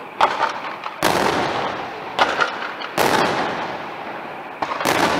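Aerial firework shells bursting in quick succession: sharp bangs about a second apart, each followed by a rolling echo that fades away.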